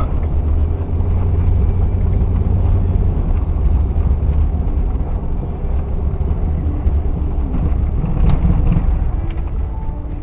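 Chevy 350 V8 of a 1998 Silverado Z71 running through true dual exhaust with Cherry Bomb glasspack mufflers: a steady, deep exhaust note that swells briefly about eight seconds in.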